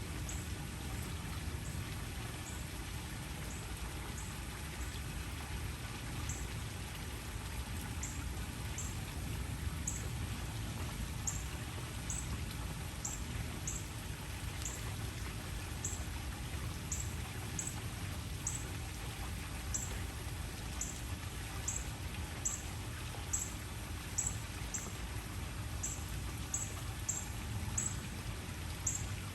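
Waterfall: a steady rush of falling water with a deep, low rumble, and short high ticks at irregular intervals, about one or two a second, over the top.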